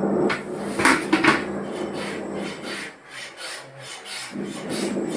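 Repeated rasping rubbing strokes on a hard surface, a few a second. For the first couple of seconds they sit under steady background music tones, which then drop away.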